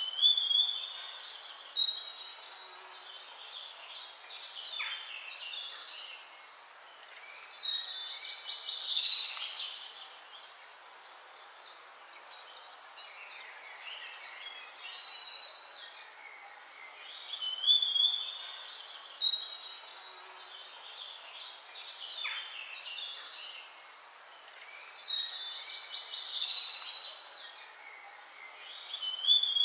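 Songbirds singing: bursts of chirps, short trills and gliding whistles. The same sequence of calls comes round again about every 17 to 18 seconds, over a faint steady hiss.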